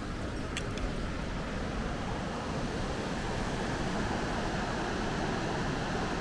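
Steady rush of flowing water, growing gradually louder, with a few light clicks about half a second in.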